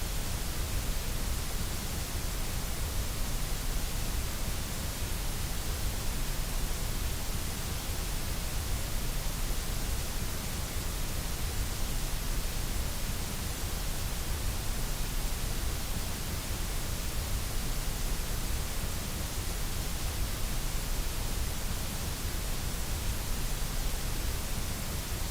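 Steady, unchanging generated noise: a continuous even hiss with a low rumble underneath.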